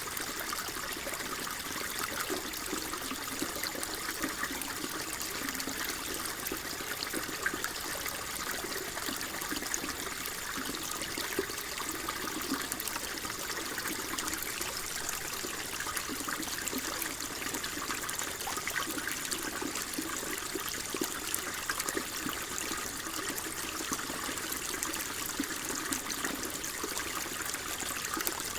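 Water flowing and trickling steadily, a constant splashing babble with no let-up.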